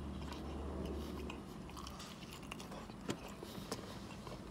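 Close-miked chewing of food with the mouth closed, with small wet mouth clicks. A low hum underneath stops about two seconds in.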